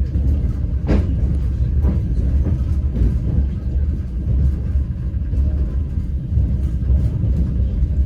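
Moving passenger train: a steady low rumble of the running carriage, with three knocks of the wheels over rail joints about a second apart in the first few seconds.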